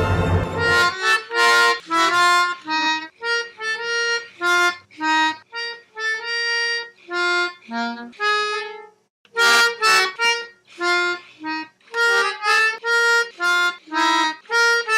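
Orchestral music cuts off about a second in. A free-reed instrument such as a harmonica then plays a melody in short, separate, held notes.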